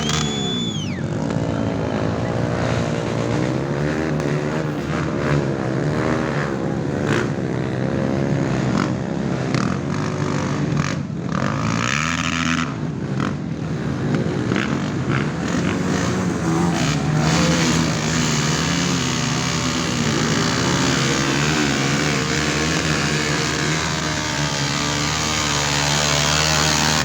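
Several off-road motorcycle engines running at once, revs repeatedly rising and falling.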